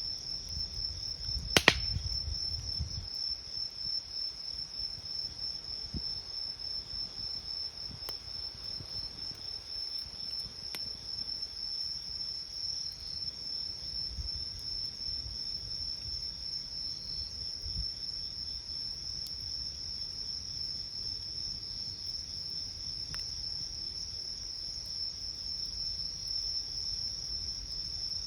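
Crickets trilling steadily in a high, even chorus. A wood campfire adds a sharp pop about two seconds in and a few faint crackles later.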